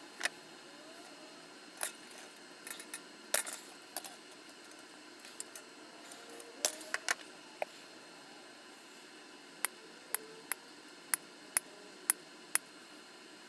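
Sharp, light clicks and clinks, scattered and irregular at first, then a quick even run of about seven clicks, roughly two a second, near the end.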